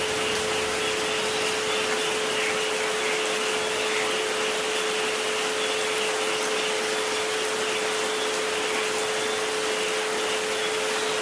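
Steady rain hiss with two pure, unchanging tones at 432 Hz and 528 Hz held over it.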